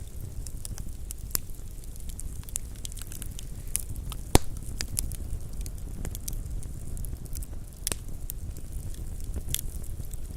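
Wood fire burning with a steady low rumble and scattered crackles and pops, one sharp pop loudest about four and a half seconds in.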